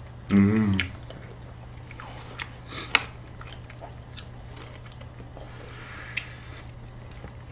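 Close-miked chewing and biting of a soft, cream-topped muffin, with a few sharp little clicks, the loudest about three seconds in. A short hummed 'mm' of a voice comes about half a second in.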